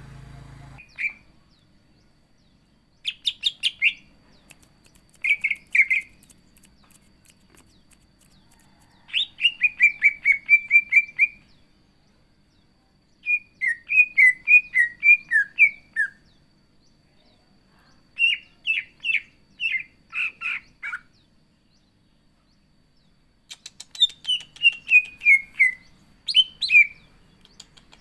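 Cucak ijo (green leafbird) singing in repeated short phrases of rapid, high chirping notes, many slurring downward, with pauses of a second or two between phrases.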